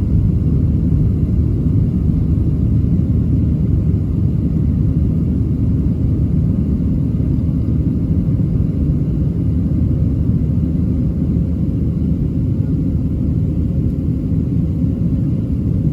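Boeing 737-700's CFM56-7B engines and airflow heard in the cabin during the climb after takeoff: a steady, low rumble that holds level throughout.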